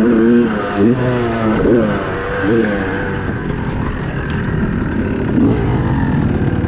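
Yamaha YZ250 two-stroke dirt bike engine revving hard as it is ridden, the pitch rising and falling quickly with throttle and gear changes for the first few seconds, then running on rougher and steadier.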